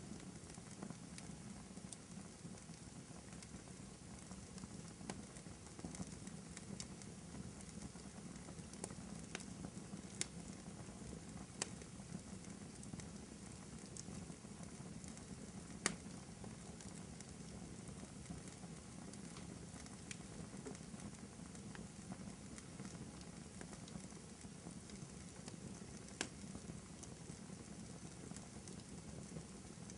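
Wood fire crackling in a fireplace: scattered soft pops and snaps, one sharper snap about halfway through, over a steady low rumble.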